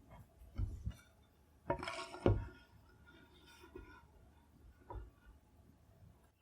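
A few light knocks and clinks of a wooden rifle stock, a wooden support block and a metal square being handled and set down on a workbench. There is one knock about half a second in, a cluster around two seconds, and a couple of fainter ones near the end.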